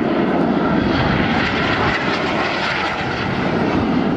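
Aermacchi MB-339 jet trainers' Viper turbojets passing in flight, a steady, loud rushing jet noise that eases slightly about three seconds in.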